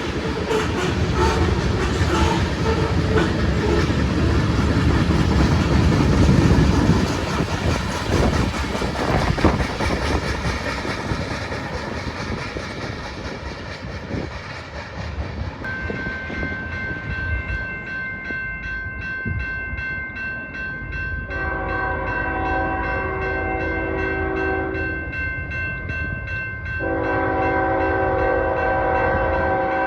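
A freight train passing close, its wheels clicking over the rail joints, fading away. Then a locomotive air horn sounds a chord of several tones in two long blasts, the second still sounding at the end.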